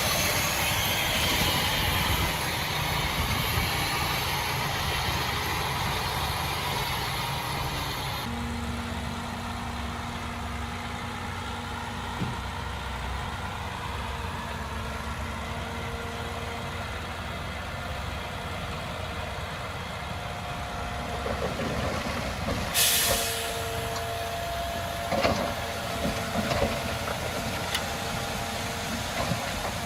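Diesel engines of heavy earthmoving machinery running steadily, with an abrupt change in the sound about eight seconds in. About two-thirds of the way through comes a short burst of air hiss, like a truck's air brake, followed by a few knocks and clanks.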